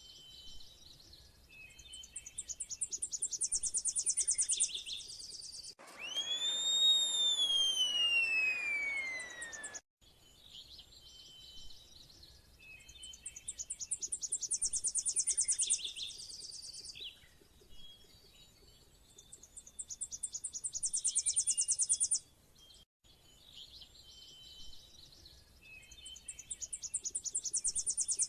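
Birdsong: a high, very fast trill that builds and stops, repeated four times with shorter chirps between. About six seconds in comes one long loud whistle that slides steadily downward for about four seconds.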